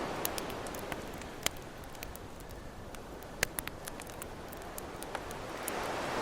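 Campfire crackling with scattered sharp pops, over the wash of ocean waves that ebbs over the first couple of seconds and swells again near the end.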